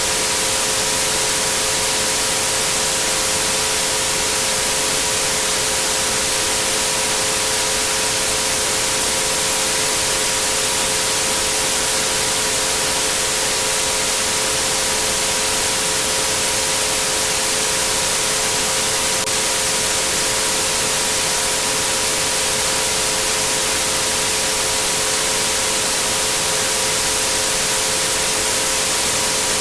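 Electronically generated white noise, a steady even hiss, with three pure sine tones held constantly beneath it at 432, 528 and 963 Hz.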